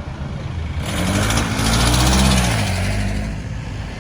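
A motor vehicle passing close by, its engine and tyre noise swelling to a peak about two seconds in and then fading, over steady road-traffic noise.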